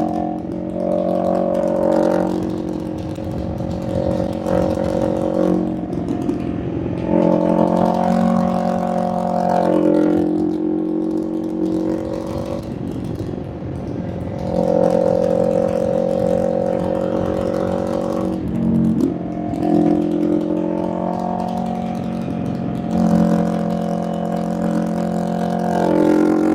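Motorcycle engine under way on winding roads, its pitch holding for a few seconds and then dropping or climbing, again and again, as the throttle and gears change through the bends.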